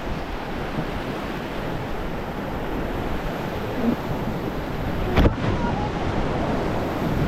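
Steady rush of whitewater around an inflatable raft riding a river rapid, with one sharp knock about five seconds in.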